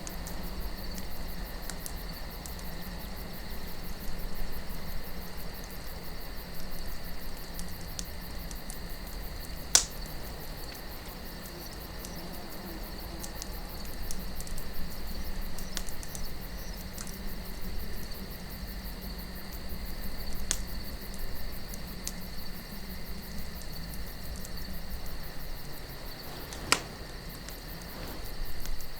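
Campfire crackling with scattered small clicks and two sharp pops, one about ten seconds in and one near the end. Under it run a steady low wind and a continuous high chirring of crickets.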